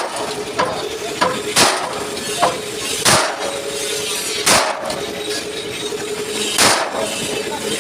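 Hammer blows on a truck's steel front bumper, beating out a dent. Heavy strikes come about every one and a half to two seconds, with lighter taps between them, each ringing briefly, over a steady faint hum.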